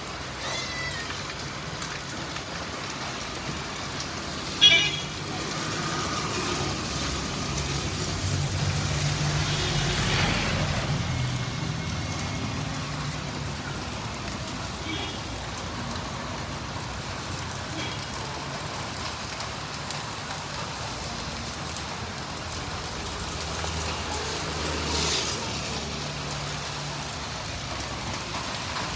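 Rain falling over city traffic: vehicles passing on wet roads with engines running, swelling as they go by. A short horn toot sounds about five seconds in.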